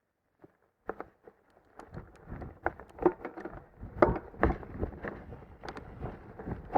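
Mountain bike riding over loose rocks: scattered clicks about a second in, building into a continuous rattle of tyres, chain and frame with repeated sharp knocks as the bike hits rocks.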